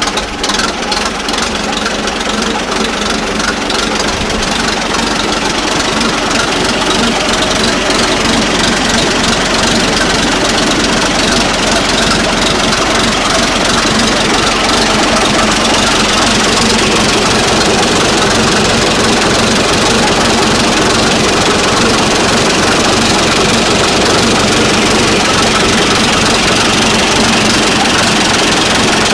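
1940 Fordson N tractor's four-cylinder side-valve engine running steadily, a little louder after the first few seconds.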